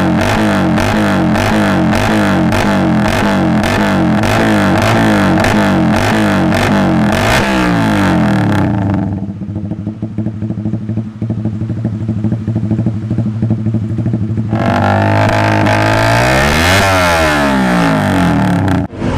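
Suzuki GSX-R150's single-cylinder four-stroke engine through an aftermarket exhaust, blipped quickly and repeatedly at about three revs a second. About eight seconds in it settles to a steady idle, then near the end the revs fall and climb again before the sound cuts off.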